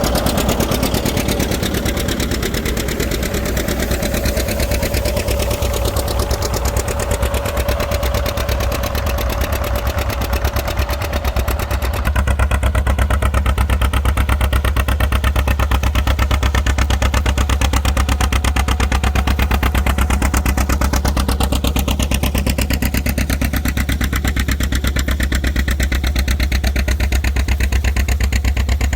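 Tractor engine running steadily, its low rumble growing louder and deeper from about twelve seconds in.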